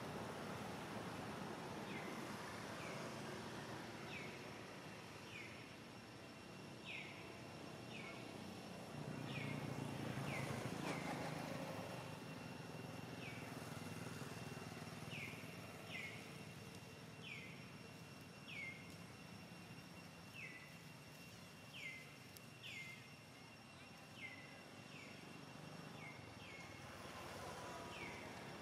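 A bird calling over and over: short, high chirps that fall in pitch, about one a second and sometimes in quick pairs, over faint steady outdoor background noise. A low rumble rises and fades about ten seconds in.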